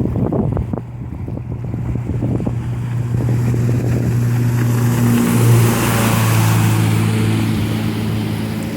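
ZMZ 406 four-cylinder petrol engine driving a water-jet boat, running at a steady speed, with a rush of water and wind that builds and peaks around the middle.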